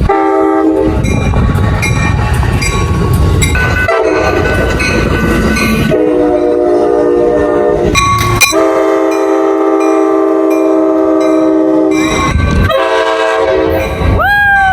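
Locomotive air horn sounding a series of chord blasts, with long ones in the middle, over the heavy rumble of a passing train. In the last blast the pitch falls steeply.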